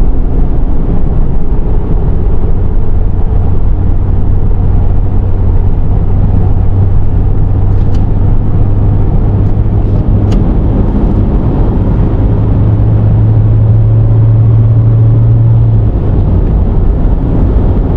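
A car being driven: a loud, steady rumble of engine and road noise with a low hum that rises slightly in pitch for a few seconds past the middle. Two faint clicks around the middle.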